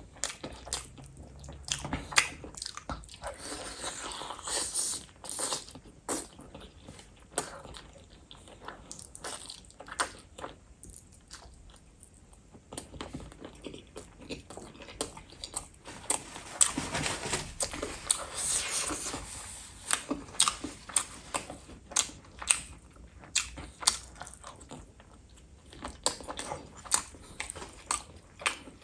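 A person eating chicken drumstick and rice by hand: chewing and biting, with many sharp clicks and smacks from the mouth.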